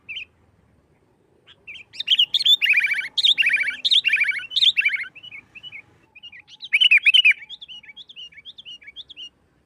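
Sooty-headed bulbul (kutilang) singing in the fast, aggressive 'nggaruda' fighting style: a loud, rapid run of chattering notes from about two to six seconds in, another short burst near seven seconds, then a string of short separate notes.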